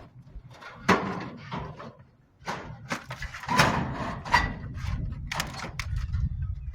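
Scrap being handled and loaded onto a truck: irregular knocks and clatter, with a sharp impact about a second in and louder bangs around the middle.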